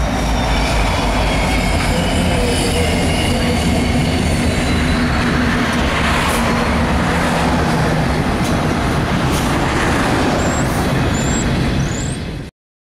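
Freight train passing close by: a steady rumble and clatter of freight-car wheels on the rails, with the low running of a mid-train diesel locomotive as it goes by. A few short high wheel squeals come near the end, and the sound cuts off suddenly.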